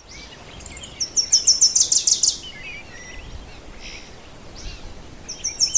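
Wild birds singing. One bird gives a quick run of high, repeated notes lasting about a second and a half, about a second in and again near the end. Softer chirps of other birds come between, over a steady outdoor hiss.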